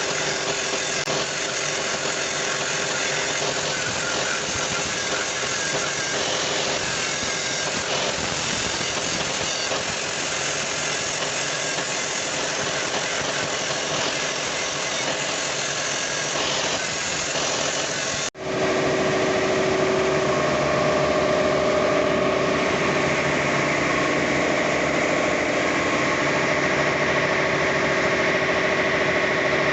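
A machine running steadily and loudly. About two-thirds of the way through it cuts off abruptly and comes back slightly louder, now with a steady whine of several tones.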